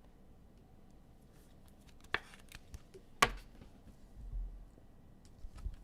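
Trading cards being handled on a table: two sharp clicks about two and three seconds in, the second one louder, followed by a few soft low taps.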